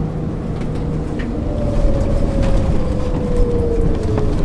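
MAN ÜL 353 bus running under way, a steady low drivetrain rumble with light rattles. From about a second and a half in, a whine falls steadily in pitch as the revs drop.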